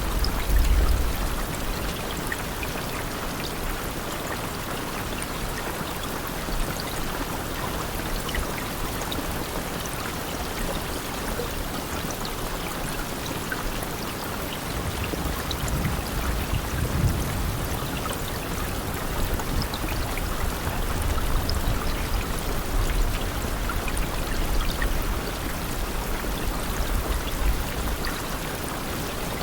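Steady heavy rainfall: an even hiss of rain with many small drop ticks, and a few low rumbles, the first about a second in and another around the middle.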